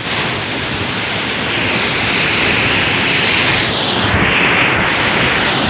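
Cyclone wind and rain: a loud, steady rushing noise that swells and eases slightly around the middle.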